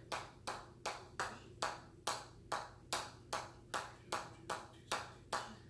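A hammer striking in a steady rhythm, about two and a half sharp metallic pings a second, each ringing briefly.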